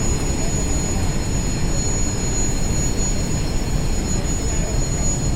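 Tractor engine running steadily under the backhoe loader, a dense low rumble with a faint, steady high-pitched whine above it.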